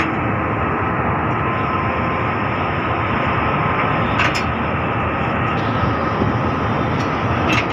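Steady rumbling noise aboard a survey vessel under way, with two brief clicks, one about halfway through and one near the end.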